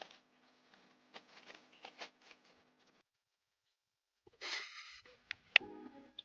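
Camp cooking handling sounds: soft rustling and small clicks, then after a short pause a brief hiss and a few sharp clinks, the loudest near the end.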